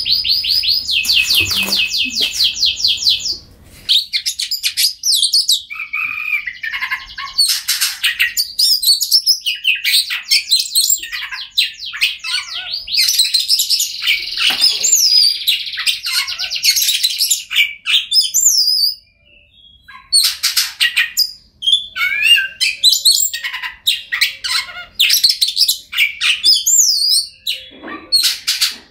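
Oriental magpie-robin singing a loud, varied song of fast trills, rattles and sharp gliding whistles, broken by a short pause about two-thirds of the way through.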